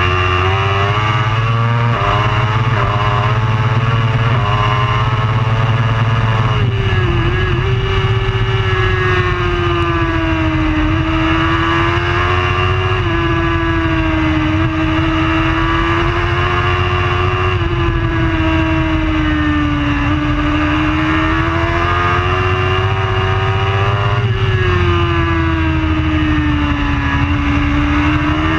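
A racing superbike's engine running hard without a break. Its pitch climbs and falls as the throttle opens and closes, with a sudden jump at each gear change every few seconds.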